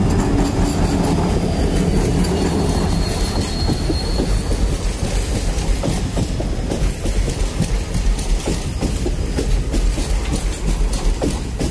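A WDP4D diesel-electric locomotive, with a two-stroke EMD engine, passes close by at speed, its engine running loudly for the first couple of seconds. Then the passenger coaches roll past with a steady rumble and rapid clickety-clack of wheels over the rail joints, and a thin wheel squeal about three seconds in.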